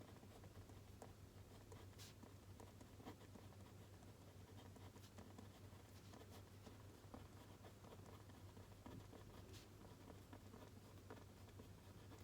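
Faint pen writing on paper: soft, irregular scratches and small taps over a low steady hum.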